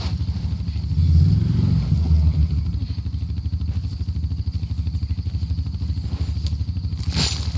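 An engine running steadily, a low rumble with a fast, even throb, swelling briefly about a second in. A short sharp sound cuts in near the end.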